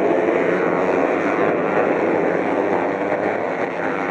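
Motocross bike engines running together in a steady, loud drone.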